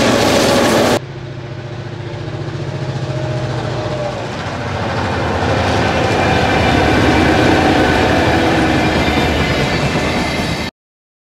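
Diesel freight trains passing close by. A brief loud burst from GM-class locomotives, then an abrupt change to a diesel locomotive's engine running past with a steady low tone, giving way to container wagons rolling by on the rails with a clickety-clack, growing louder before the sound cuts off suddenly near the end.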